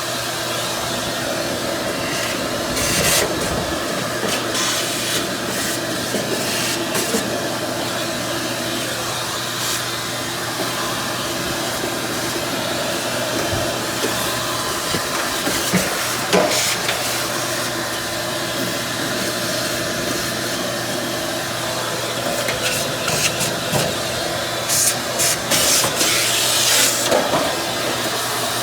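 A motor running steadily with a hiss and low hum, broken by brief scraping and knocking sounds about three seconds in, around the middle, and more often over the last few seconds.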